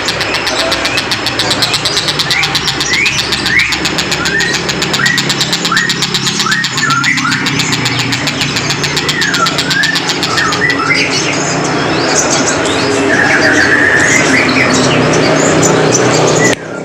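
Tengkek buto kingfisher calling in runs of quick sharp sloping notes, then a longer wavering phrase, over the steady hum of an engine running.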